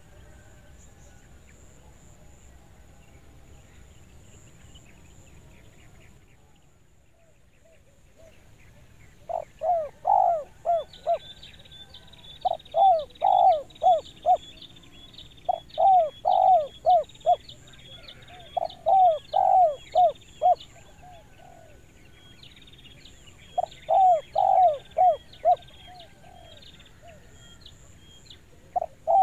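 Spotted dove (tekukur) cooing in its clear two-'kuk' call style: from about nine seconds in it gives about five phrases of several quick coo notes each, with short pauses between, and a new phrase starting at the very end. Behind it a smaller bird chirps in quick high notes through much of the cooing.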